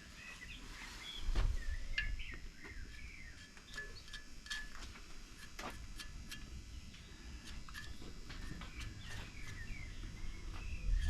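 Small birds chirping and twittering outdoors, with a low wind-like rumble underneath and a few sharp clicks.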